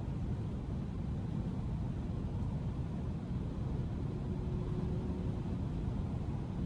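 2012 Audi S5's supercharged 3.0 V6 and tyre noise as a steady low rumble while the car drives along at a constant pace, with no revving.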